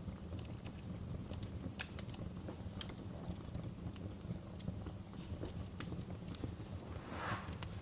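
Wood fire crackling: scattered sharp pops and snaps over a steady low rumble of the flames, with a brief hiss near the end.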